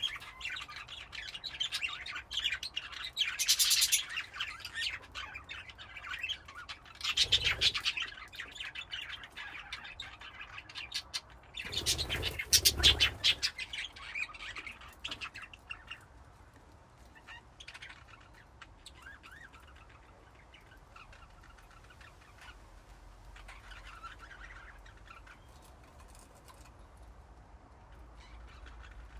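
A flock of budgerigars chattering and chirping. There are three louder bursts about 4, 7 and 12 seconds in, the last the loudest. The chatter then thins to scattered, quieter chirps for the second half.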